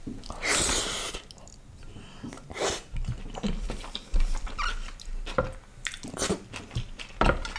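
Close-miked eating sounds: a man chewing and smacking on a mouthful of food eaten by hand, with wet mouth clicks and smacks. A loud breathy rush comes about half a second in.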